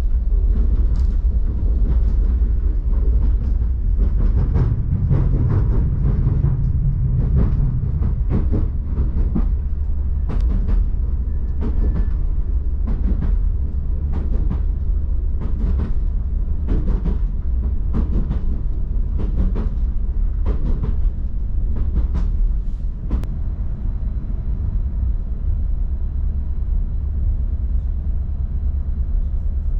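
Passenger train running along the line, heard from inside the carriage: a steady low rumble with irregular sharp clicks and knocks from the wheels on the track, which thin out after about 23 seconds.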